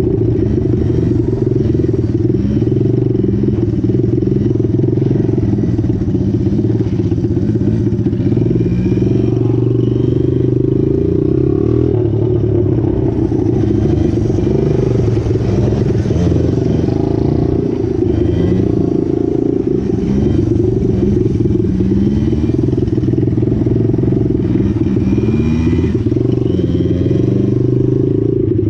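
Small mini bike engine running hard, its pitch rising again and again every couple of seconds as it is revved up through the throttle.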